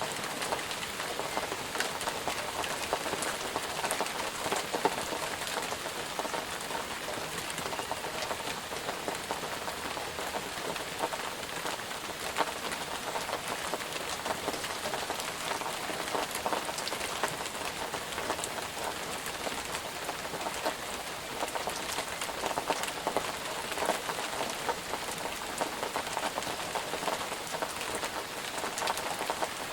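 Steady rain falling on a surface, with many separate drop impacts heard through the even hiss.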